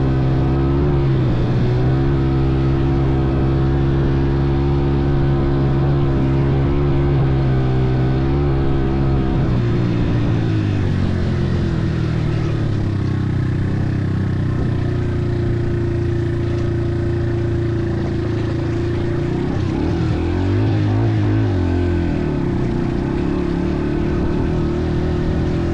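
A motor vehicle engine running steadily, its pitch dropping about ten seconds in and wavering up and down again around twenty seconds.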